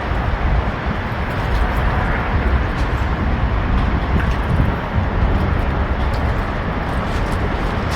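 Strong wind buffeting the microphone: a steady, rumbling noise that swells and eases.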